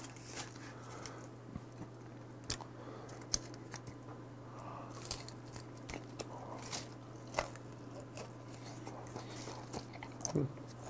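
A man biting and chewing crunchy dried snack food, making scattered soft crunches and clicks.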